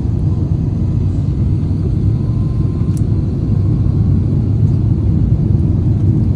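Steady low rumble of an airliner heard from inside the passenger cabin: engine and rolling or airflow noise, with no distinct events.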